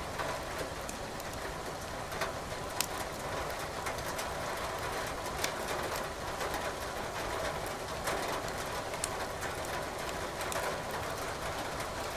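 Steady hiss of rain mixed with the crackle of burning firewood in a fireplace: scattered sharp pops and snaps over the even rain noise.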